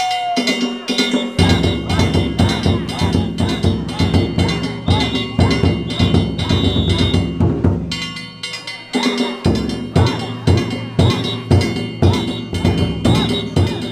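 Danjiri float's festival percussion band: a taiko drum beaten in a fast, steady rhythm under ringing kane gongs struck with it. The drum drops out for about a second near the middle, while the gongs keep ringing.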